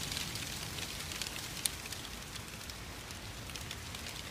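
Steady rain falling during a thunderstorm, an even hiss with many scattered drops ticking close by.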